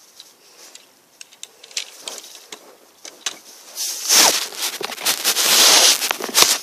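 Lego plastic clicking and knocking, then, about four seconds in, a loud rough scraping and rattling with knocks lasting a couple of seconds, as the Lego monster truck is played with.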